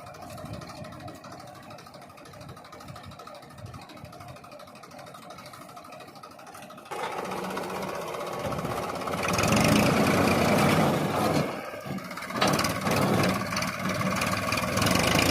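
Massey Ferguson 1035 DI tractor's three-cylinder diesel engine running. It is fairly quiet at first, jumps suddenly louder about seven seconds in, then comes in two louder surges as it revs harder.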